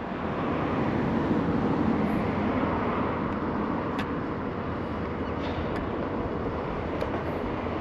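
Car driving on the road, a steady sound of tyres and engine with a few faint clicks.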